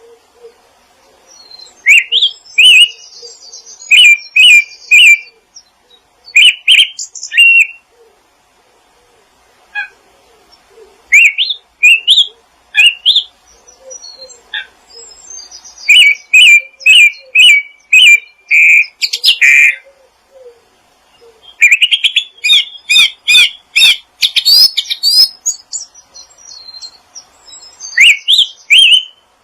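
A songbird singing in loud phrases of rapid, sharp chirps and whistled glides. Seven or so phrases come a few seconds apart, with short pauses between.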